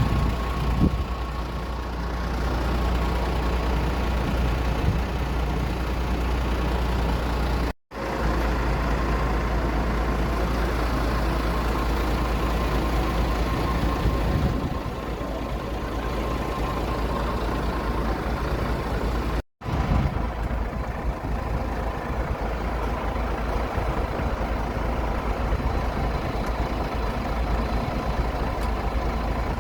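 Aircraft engine running steadily on the ground, a continuous rumble with a steady whine. The sound cuts out abruptly twice for a moment.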